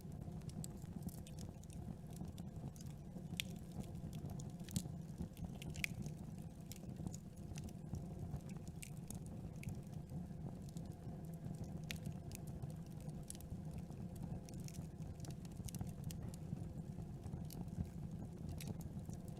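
Campfire burning: a steady low rumble of the flames with irregular sharp crackles and pops of burning wood throughout.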